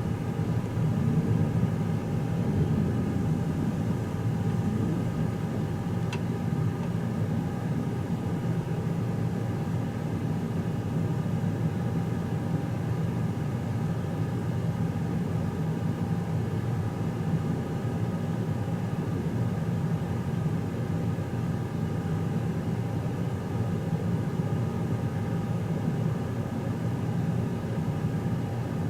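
Steady low rumble and hum of the Twilight Express Mizukaze train, heard inside a passenger cabin, with an even set of steady tones over the rumble.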